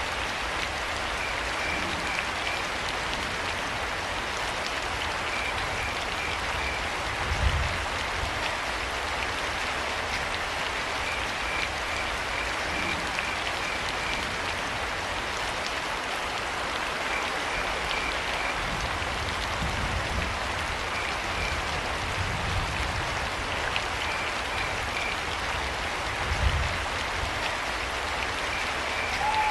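Steady rain falling, with crickets chirping in short trains of pulses every few seconds. Two low thuds stand out, one about a quarter of the way in and one near the end.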